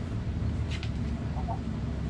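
Backyard hens clucking, with a few short calls about a second in and again near the end, over a steady low rumble.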